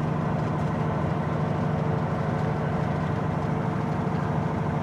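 Semi truck's diesel engine running steadily while the truck is driven, heard from inside the cab.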